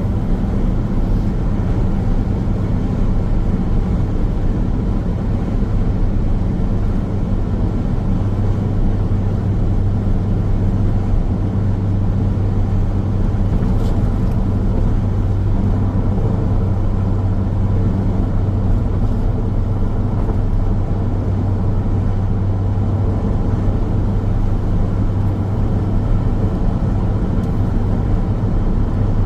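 Car driving steadily along a road: continuous tyre and engine road noise, a low rumble with a constant drone that holds even throughout.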